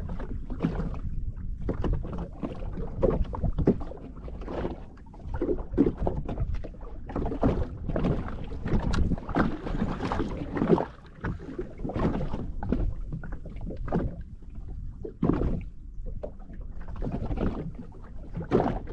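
Sea water slapping and splashing against the hull of a drifting jet ski in irregular splashes, over a steady low rumble.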